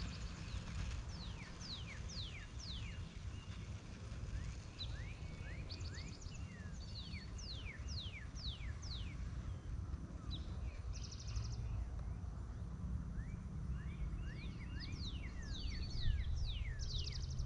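Birds singing: runs of quick, sharply falling whistled notes repeated throughout, over a steady low rumble.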